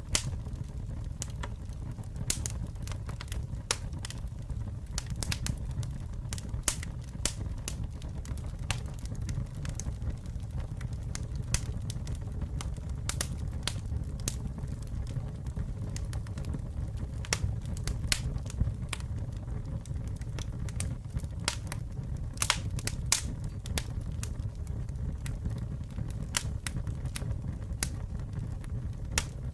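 Campfire burning: a steady low rumble of flames with frequent irregular sharp crackles and pops from the burning wood.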